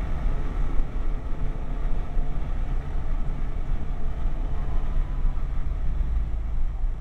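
Ferrari 308 GTB's V8 engine and road noise heard from inside the cabin while driving at a steady pace: a low, steady rumbling drone.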